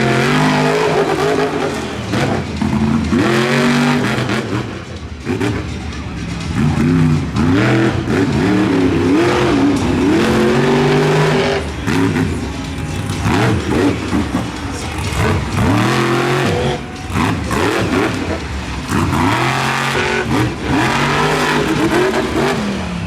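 Monster truck engine revving hard, its pitch climbing and falling back again and again as the throttle is worked, with short drops between bursts.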